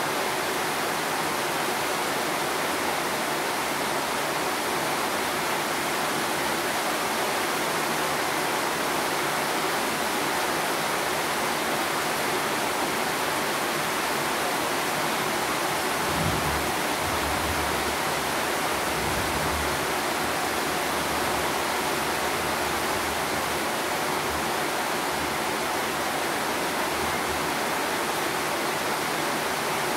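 Steady hiss of rain falling, with a soft low rumble partway through.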